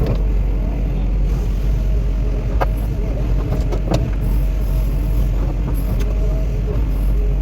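An engine running steadily at a constant pitch, with a few sharp clicks or knocks about two and a half and four seconds in.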